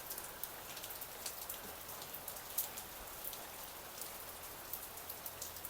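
Light rain falling: a soft, even hiss with many small, scattered raindrop ticks.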